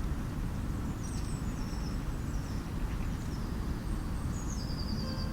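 Small birds calling with thin, high-pitched chirps and a quick run of repeated notes near the end, over a steady low outdoor rumble.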